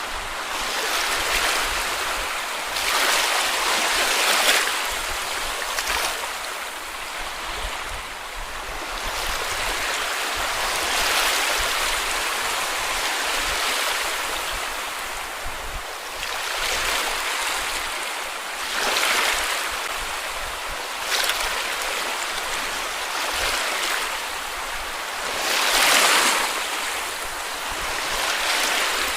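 Sea waves washing up on a beach: a steady wash of surf that swells and falls back every few seconds, with a few short splashes and the biggest surge near the end.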